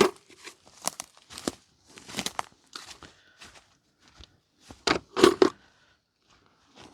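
Footsteps crunching at an uneven walking pace, with a few louder crunches about five seconds in.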